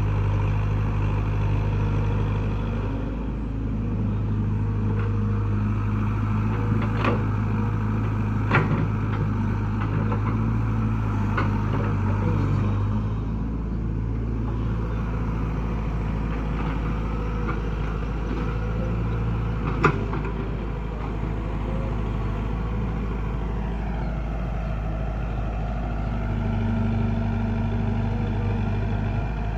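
Heavy diesel machinery running steadily, its engine note shifting slightly in load now and then, with a few sharp metallic knocks: one about seven seconds in, another just after, and one around twenty seconds in.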